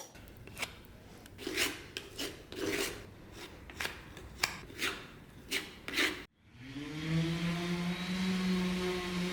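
About a dozen irregular hand strokes of an abrasive scraping on wood, as in sanding or rasping. After a sudden break a little past six seconds in, a small electric power tool's motor starts, rising briefly in pitch as it spins up, then runs steadily.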